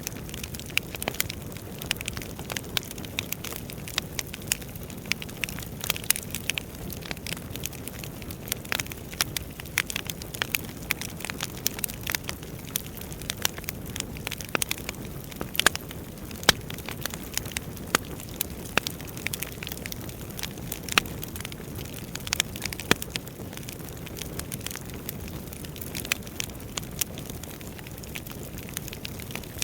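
Wood fire burning in a fireplace, crackling and popping irregularly over a low steady whoosh of flame.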